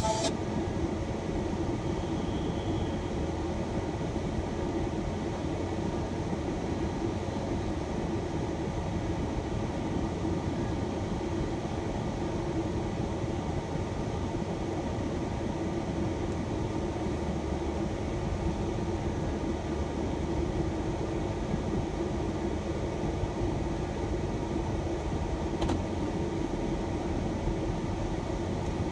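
Steady cabin noise inside a shuttle van: the running engine and fans making an even low rumble with a faint steady hum.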